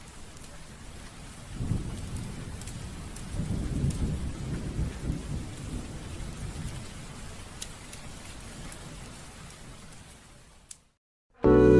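Steady hiss of rain with a rolling rumble of thunder that swells a couple of seconds in and dies away, fading out near the end. A breathy ney flute melody enters right at the end.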